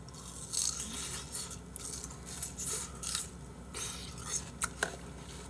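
A person chewing a mouthful of watermelon with its white rind, soft wet crunching in several short bouts, with a couple of sharp clicks near the end.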